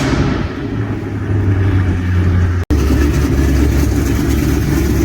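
Big-cam V8 with a Borla ATAK exhaust running loud and steady just after catching on a cold start, the exhaust still leaking.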